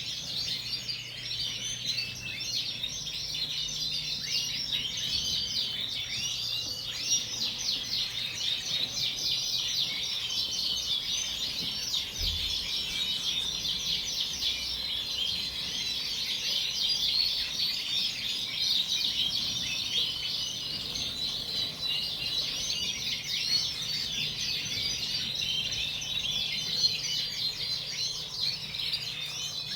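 A roomful of Yorkshire canaries chirping and singing at once, a dense, continuous chatter of many overlapping high calls.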